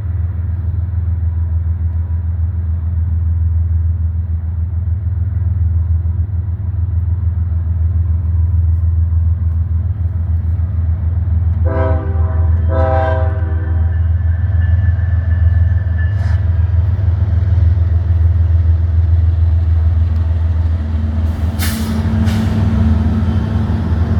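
Norfolk Southern diesel locomotives of an empty coal train rumbling steadily close by. About twelve seconds in, the locomotive horn gives two short blasts as a horn salute. Near the end there is a brief louder noisy burst.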